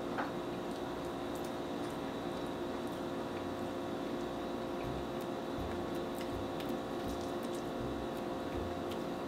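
Close-miked chewing of fried fish, with faint wet mouth clicks and soft low thumps, over a steady low room hum.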